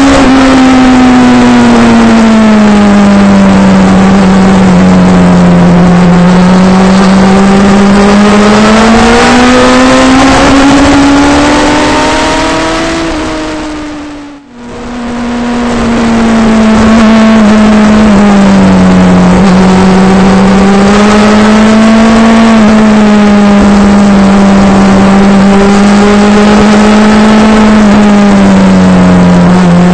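Suzuki GSX-R sportbike's inline-four engine running at steady cruising revs, heard on board with wind noise, its pitch rising and falling gently with the throttle. About halfway through the sound fades away for a moment and comes back.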